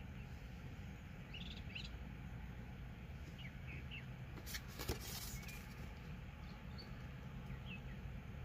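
Faint, short bird chirps heard a few times over a steady low outdoor rumble. About halfway through comes a brief rustling crackle.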